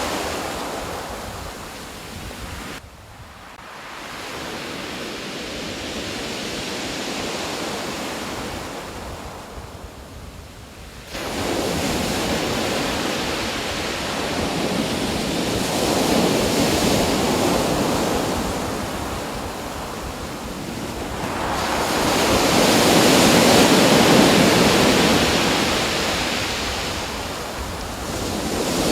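Rushing water, a steady roar that swells and fades every several seconds, with a sudden jump in loudness about eleven seconds in.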